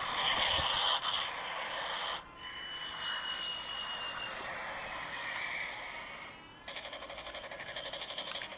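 Thin, tinny electronic sound effects: a dense buzzing for about two seconds, then a held high tone, then a fast run of even beeping pulses near the end.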